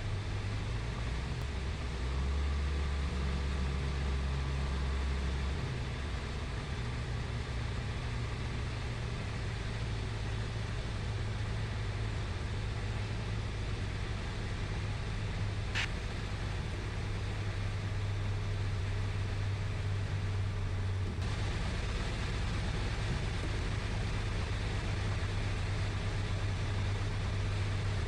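Steady drone of a Piper Cherokee's single piston engine and propeller, with airflow noise, as heard inside the cabin in cruise flight. A brief sharp click sounds about halfway through.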